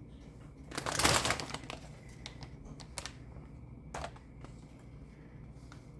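Pork rinds being handled and shaken out of their plastic bag to measure them: a crinkly rustle about a second in, then a few scattered light clicks.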